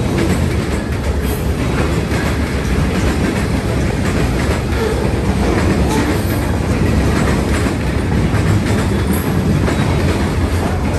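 Freight cars of a long train, lumber-loaded centerbeam flatcars and then a covered hopper and an autorack, rolling past at speed: a steady, loud rumble of steel wheels on rail with occasional clacks over the joints.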